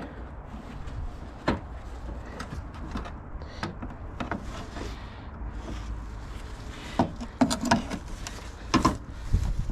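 Scattered clicks and knocks of hands handling car parts, with a denser run of sharp clicks about seven to nine seconds in, over a low steady rumble.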